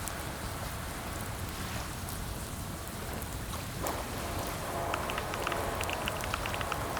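Computer keyboard typing: quick clicks of keys coming in about four seconds in, over a steady rain-like hiss with a low rumble.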